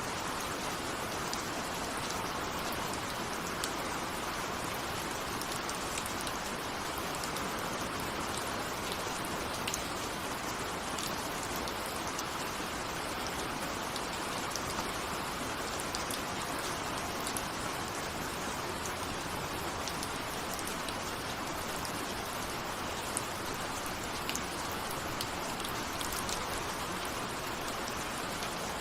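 Steady rain, an even hiss with scattered small ticks of individual drops striking.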